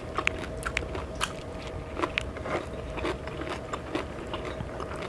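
Close-miked mouth sounds of a person eating: chewing with irregular small wet clicks and smacks, over a faint steady hum.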